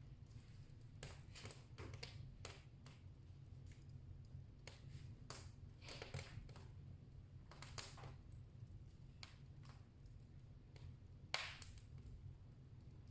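Wood fire crackling in a fireplace: faint, irregular pops and snaps, with one louder snap about eleven seconds in, over a low steady hum.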